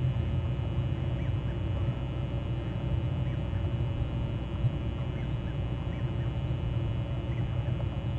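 Crows cawing in the distance, short scattered calls over a steady low rumble.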